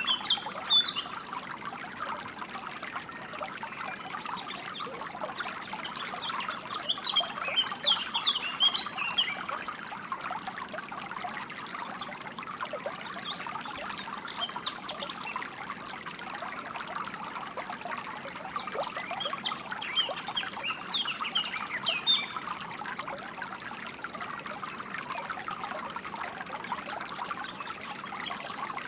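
Flowing water trickling and splashing steadily, with small birds chirping in short bursts every several seconds.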